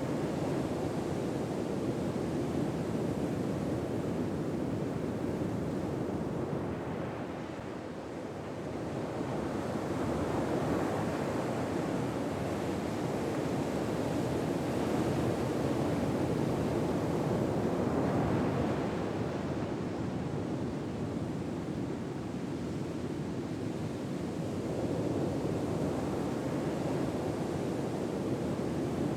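Ocean surf ambience: a steady hiss of waves on a shore that slowly swells and ebbs, dipping around eight seconds in and building to its fullest in the middle stretch.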